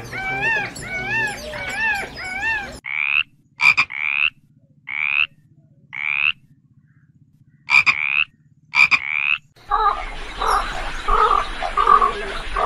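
Animal calls from three separate recordings in turn. First comes a quick series of wavering calls. Then short rising chirp-like calls repeat about once a second, with quiet gaps between them. About ten seconds in, a noisier run of calls begins.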